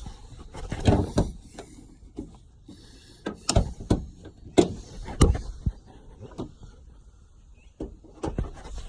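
A series of sharp metallic knocks and clunks, with some rustling near the start, as things are handled around a car.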